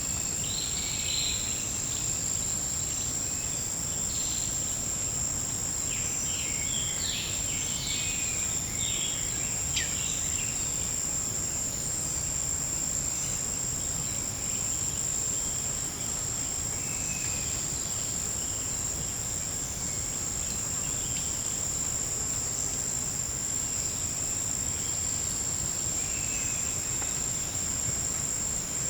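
A forest insect chorus: a steady, high-pitched drone held on two pitches. Scattered short chirping calls sound a little lower, in a cluster near the start and another a few seconds later, with a few more near the end.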